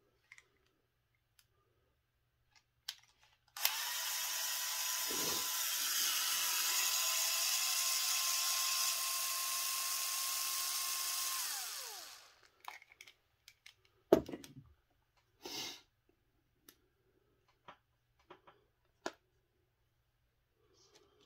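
Cordless drill or power screwdriver backing out a screw from the Traxxas Drag Slash transmission case, running steadily for about eight seconds and then winding down. Afterwards come a few small clicks and knocks of parts being handled.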